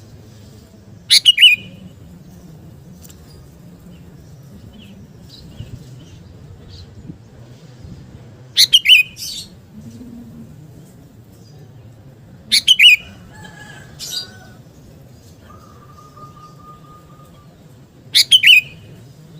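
Sooty-headed bulbul (kutilang) singing short, loud phrases four times, several seconds apart, over a steady low hum.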